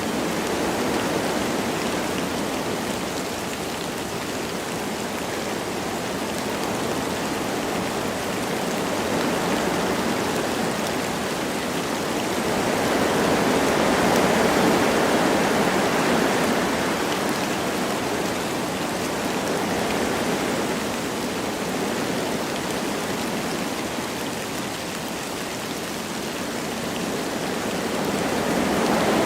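Wind blowing through forest trees with light rain: a steady rushing that swells and eases in slow gusts, loudest about halfway through.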